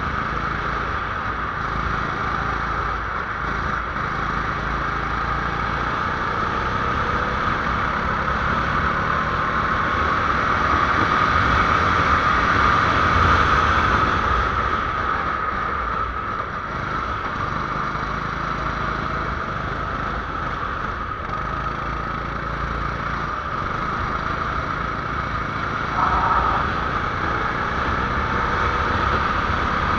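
A small 270cc engine running continuously under a moving driver, its pitch gliding up and down with the throttle over a rushing noise. It swells about halfway through, and there is a brief louder burst near the end.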